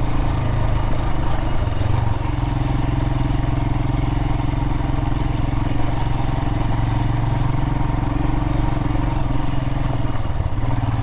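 Royal Enfield Himalayan's single-cylinder engine running steadily on the move, its note dipping briefly near the end.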